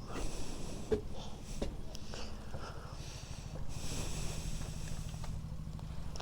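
Mini motorcycle's small engine idling with an even low pulse, and a brief rush of hiss about four seconds in.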